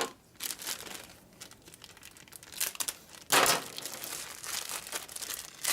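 Irregular rustling and handling noises as parts are handled at a workbench, with a louder scraping rustle a little past three seconds in.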